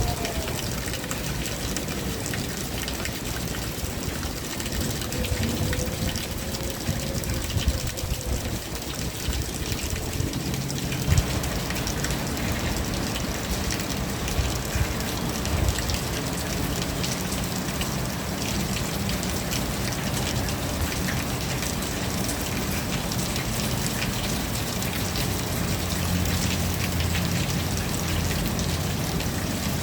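Rain falling steadily, a dense even patter of drops. A faint low hum comes in about a third of the way through and stays under it.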